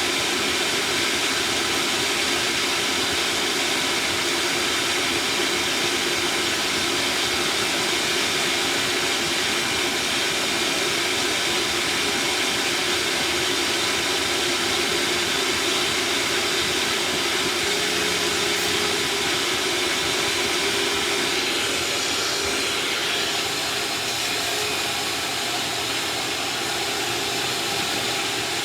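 Shop vacuum running steadily, with a slight dip in loudness near the end.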